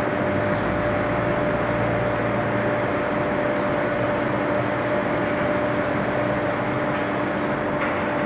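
Steel billet induction heating furnace line running: a steady industrial noise with a constant hum at one pitch and a fainter hum below it.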